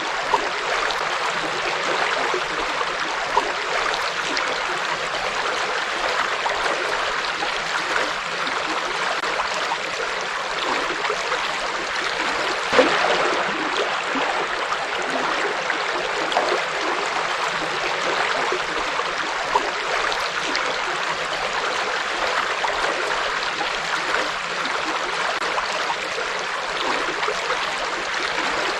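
River water flowing: a steady rush with small splashes and gurgles throughout, and one slightly louder splash about halfway through.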